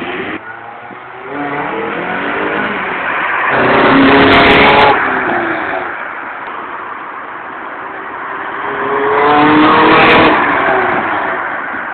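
MGF's four-cylinder engine revving through an Xpower sports exhaust: two throttle blips, each climbing to a loud peak and dropping back, the first cut off sharply about five seconds in, the second about ten seconds in.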